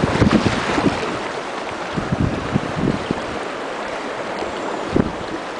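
River rapids rushing and splashing around a raft, with wind buffeting the microphone in irregular low thumps, heavier in the first three seconds and once more near the end.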